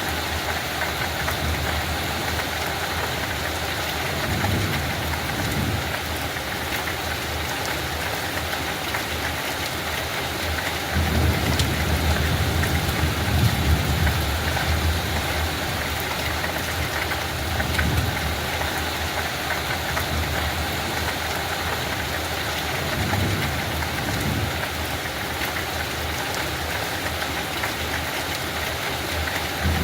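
Steady light rain falling on a field, an even hiss throughout. A low rumble swells up several times underneath, most strongly in the middle.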